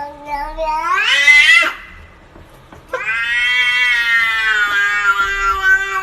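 A cat giving two long, drawn-out meows, the first rising in pitch, the second held level for about three seconds.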